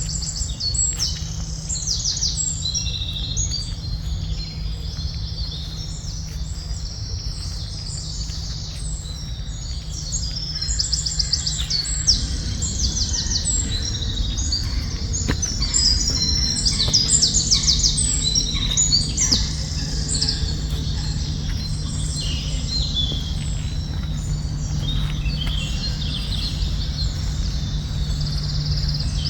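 A chorus of forest birds calling over one another, with many overlapping high chirps and rapid trills, over a steady low hum.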